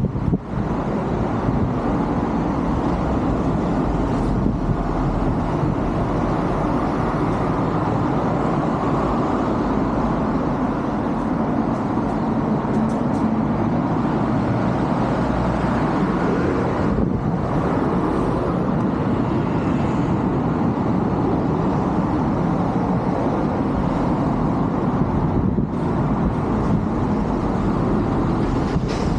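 Steady road traffic noise: a continuous low rumble of passing cars, with no distinct single events standing out.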